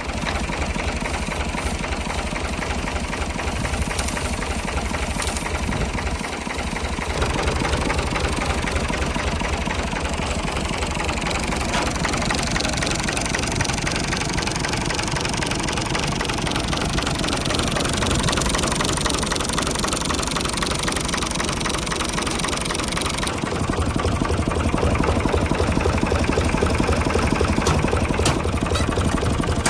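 Tractor diesel engine running steadily with an even firing beat. It gets a little louder about 7 seconds in and runs heavier and deeper from about 23 seconds.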